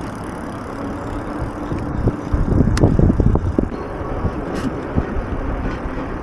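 Steady street and riding noise, with a stretch of heavier low rumbling and a few knocks around the middle. This fits wind buffeting the microphone and the road noise of a moving electric fatbike.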